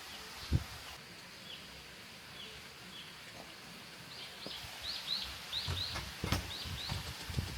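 A small bird chirping: short, high notes, a few spaced out at first, then a quick run of them in the second half. A few low knocks, the loudest about half a second in and just after six seconds.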